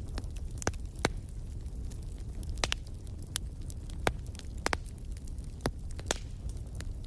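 Wood fire burning in a fireplace: a steady low rumble with sharp, irregular crackles and pops, a few of them louder.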